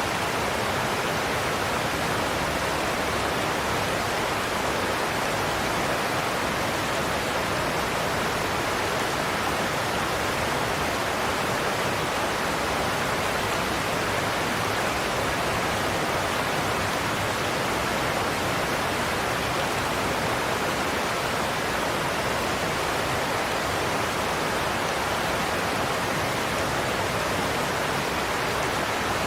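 Godafoss waterfall: a steady roar of falling water, even and unbroken throughout.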